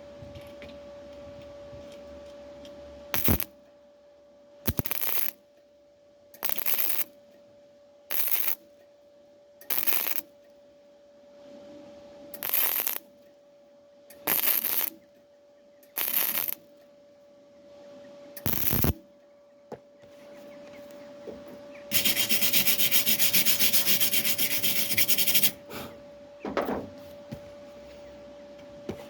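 Welder laying a series of short tack welds on car body steel, about ten half-second bursts spaced a second or two apart, then one longer crackling run of about three and a half seconds. A steady hum sits underneath.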